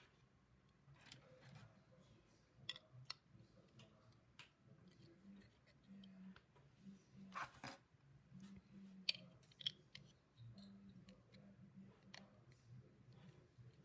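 Plastic LEGO pieces being handled and pressed together: scattered faint clicks and small rustles, the sharpest click about nine seconds in, over a faint low hum.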